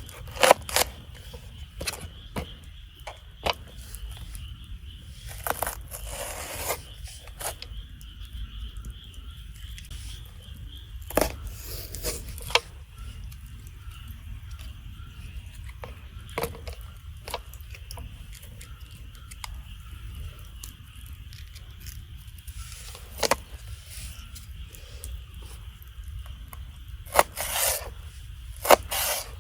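Campfire cooking: metal utensils scraping and clinking against a steel frying-pan dish, amid irregular sharp snaps of a wood fire, with a few longer scrapes about six seconds in, around twelve seconds and near the end.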